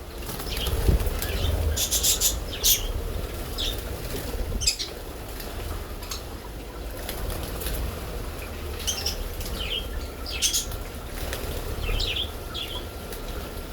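Birds flying close around, wings flapping and fanning air, with scattered short high chirps.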